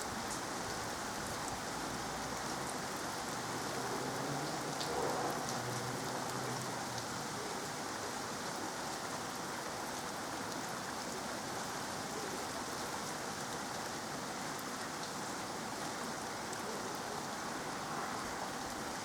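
Steady rain falling during a thunderstorm, an even hiss with a few sharper drop ticks.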